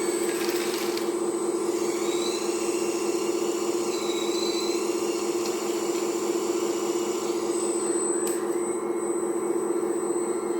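Hydraulic pump of a radio-controlled Volvo 360L excavator model running with a steady whine. Fainter higher tones slide up and down in pitch as the machine works, and there is one sharp click about eight seconds in.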